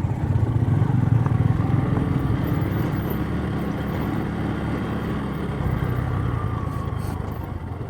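Bajaj Boxer single-cylinder four-stroke motorcycle running steadily while being ridden, its engine note mixed with road and wind noise.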